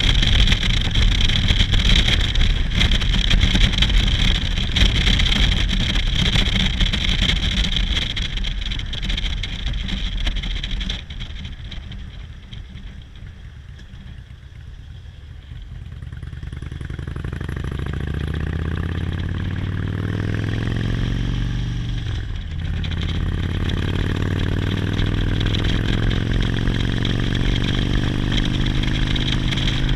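Motorcycle riding with heavy wind noise on the microphone. About eleven seconds in it goes quieter, then the engine pulls away with a rising note, shifts gear about twenty-two seconds in, and runs on steadily.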